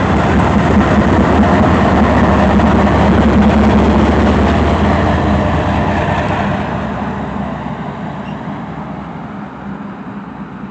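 Freight train rolling past with a steady rumble of wheels on rail and a low hum. The sound fades away over the last few seconds as the end of the train goes by.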